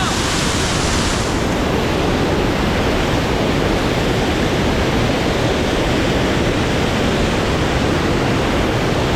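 Waterfall pouring close by, a loud steady rush of water with no let-up; the highest hiss dims about a second in.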